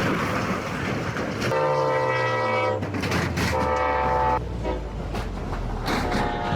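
Train horn blowing long blasts: one about a second and a half in, a shorter one a couple of seconds later, and a third near the end, over the rumble of a moving train.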